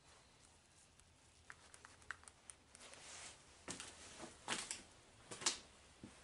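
Faint handling noise from work on the machine: a few light clicks, then three or four short rustling, scraping strokes in the second half.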